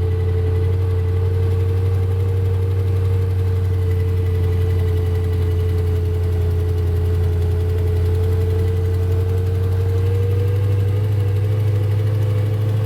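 Suburban's swapped-in engine running steadily, a constant low drone with a steady whine above it that rises slightly near the end.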